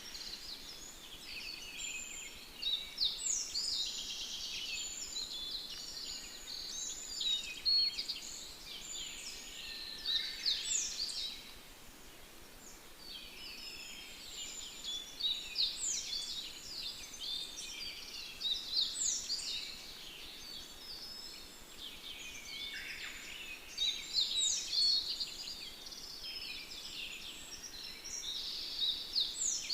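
Birdsong: many small birds chirping and trilling in quick, mostly falling notes, with a short lull about halfway through.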